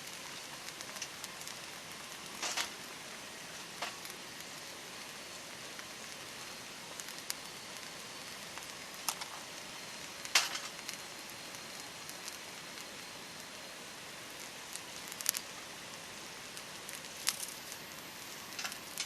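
Wood campfire burning with a steady hiss and sharp crackling pops every few seconds, the loudest pop about ten seconds in.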